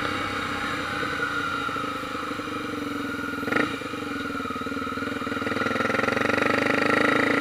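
Honda XR 250 Tornado's single-cylinder four-stroke engine running at road speed. The engine note sags slightly, there is a short knock about halfway through, and then the revs climb steadily toward the end.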